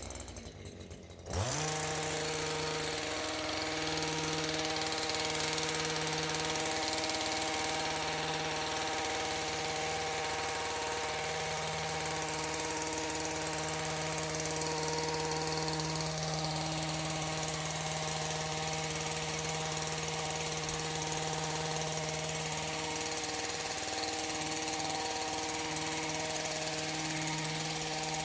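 Small gas engine of a handheld trimming power tool speeding up quickly about a second in, then running steadily at high speed.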